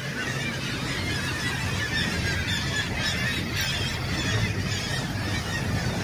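A colony of seabirds calling all at once, a dense unbroken din of squealing and honking calls, over a steady low hum.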